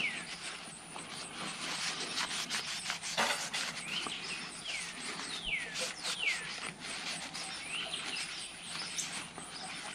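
Birds calling in a series of short downward-sliding chirps, over the faint rustle of a paper towel rubbing a small metal rifle part, with a soft knock about three seconds in.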